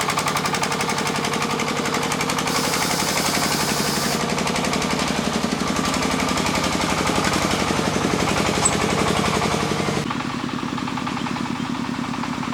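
A small farm engine running with a fast, steady chug of even pulses; the sound changes abruptly about ten seconds in as the hiss on top falls away.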